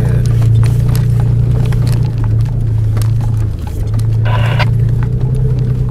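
A Jeep's engine and drivetrain drone steadily inside the cabin as it drives slowly over a gravel trail, with scattered clicks and rattles from the stones and the body. There is a brief dip in level just past the middle, followed by a short, higher-pitched squeak or whine.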